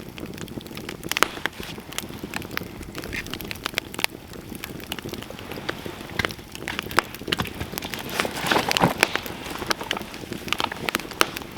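Campfire crackling and popping: wood burning with irregular sharp snaps, a busier flurry of pops near the end.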